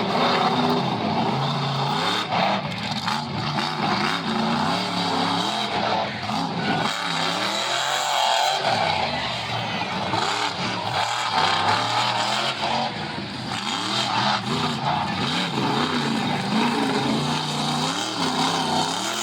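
Monster truck engine revving hard, its pitch rising and falling again and again over a dense wash of noise.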